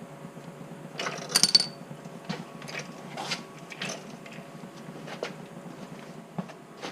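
Metallic clatter of tools or parts being handled: a burst of sharp clanks with a ringing tone about a second in, then scattered lighter knocks and rustles.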